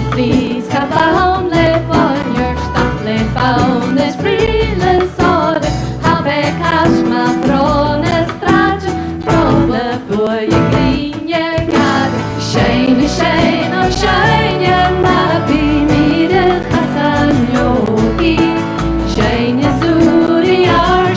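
A woman singing with a live folk band: a melody over fiddle, plucked strings and bass.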